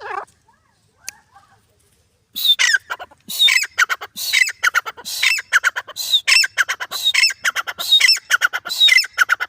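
Grey francolin calling: after a short pause, a loud, rapid series of shrill repeated call notes begins about two seconds in and keeps going.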